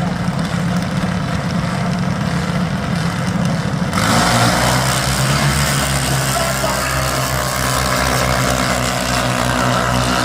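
A vehicle engine running close by; about four seconds in a louder, steady engine hum takes over from a rougher rumble.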